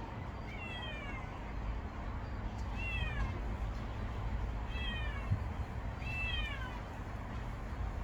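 A young stray kitten meowing four times, every couple of seconds. Each meow is short, high-pitched and falls in pitch.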